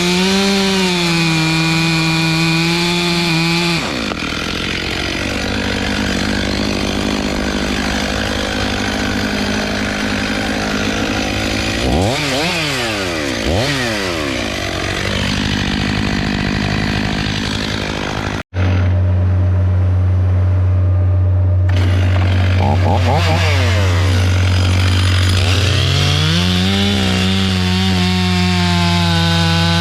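Chainsaw running under load, its engine pitch rising and falling as it revs. About eighteen seconds in the sound cuts off for an instant and then comes back as a steady engine hum that revs up again near the end.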